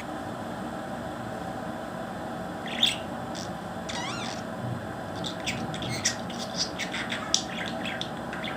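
Pet parrot calling: a short high call about three seconds in, a warbling whistle a second later, then a run of quick chirps and clicks, over a steady background hiss.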